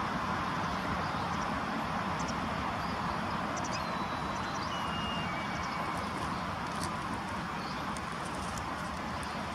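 Steady outdoor hum of distant traffic, with a few faint, short, high chirps, most likely small birds, in the middle.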